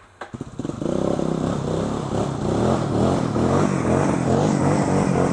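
Off-road vehicle engine revving hard, starting about half a second in and held at high revs with the pitch wavering up and down, as the machine strains to pull free of a mud hole.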